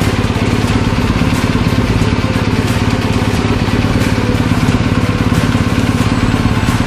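Motorcycle engine idling steadily, with an even low pulse.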